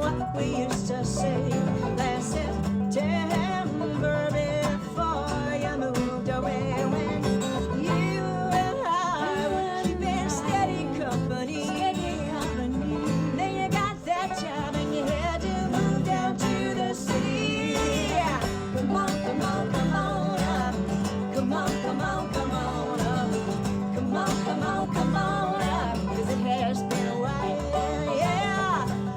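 Live acoustic band playing a country-bluegrass style song: plucked guitar strings over a steady bass line, with singing.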